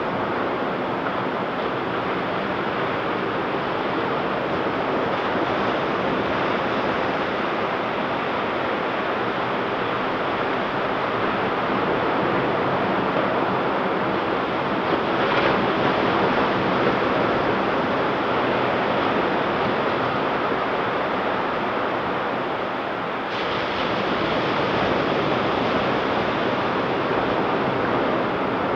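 Ocean surf washing onto a beach: a steady rush of breaking waves, with one wave crashing a little louder about halfway through.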